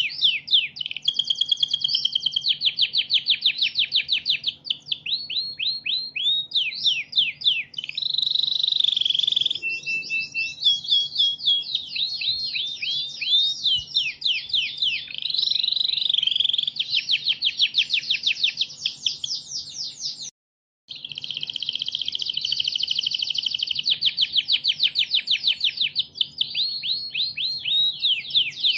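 Domestic canary singing a continuous, high-pitched song made of fast trills: long runs of rapidly repeated notes, many of them quick falling sweeps, changing from one trill to the next every second or two. The song cuts out completely for a split second about twenty seconds in, then carries straight on.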